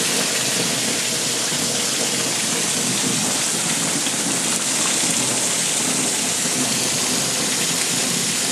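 Heavy rain on a greenhouse's plastic roof, a steady hiss, with water streaming down from a sagging inner screen and splashing onto the benches below.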